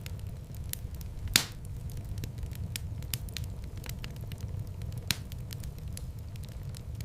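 Wood fire in a fireplace crackling over a steady low rumble, with scattered sharp crackles and two louder pops, one about a second and a half in and one about five seconds in.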